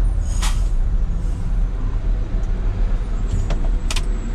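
Concrete mixer truck's diesel engine running with a steady low rumble, with two short hisses of air about half a second in and near the end.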